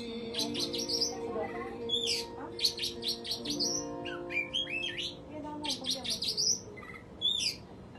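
Oriental magpie-robin (kacer) singing: a fast, varied run of sharp chirps and whistled notes that sweep up and down in pitch, coming in quick phrases.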